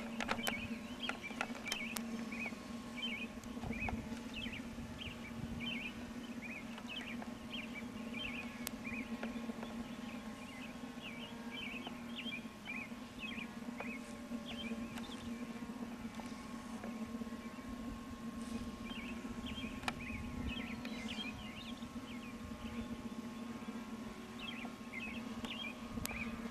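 Birds chirping with many short calls throughout, over a steady low hum and wind rumble on the microphone.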